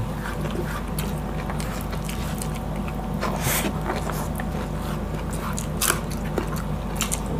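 Close-miked eating sounds: chewing, biting and wet mouth noises from people eating boiled pork hock and jackfruit by hand, a run of short scattered clicks and smacks over a steady low hum.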